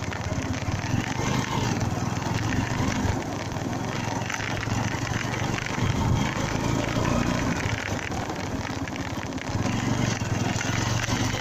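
Honda Mega Pro Primus single-cylinder motorcycle engine running steadily while riding, under a steady rush of road noise.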